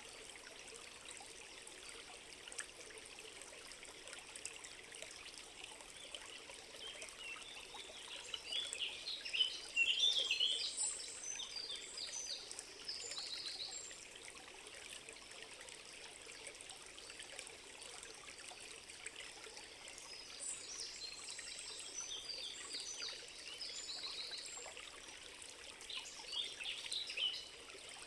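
Forest ambience: a steady trickle of flowing water with bursts of songbird chirping, the loudest about a third of the way in, again past the middle and near the end.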